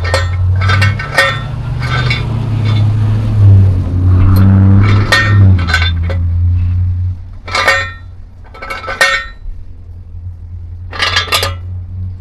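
Metal objects being knocked and set down in a series of sharp clinks, each ringing briefly. A steady low hum runs beneath them and drops away about seven seconds in.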